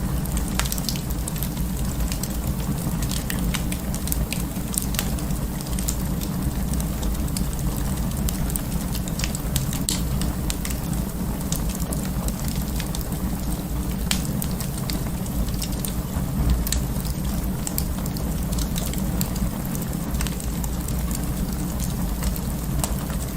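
Wood fire burning in an open fireplace: a steady low rumble of flames with frequent small, sharp crackles and pops.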